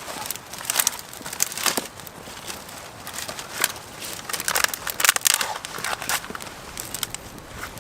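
Irregular crunching and crackling of dry leaves and twigs, a run of short sharp crackles with uneven gaps.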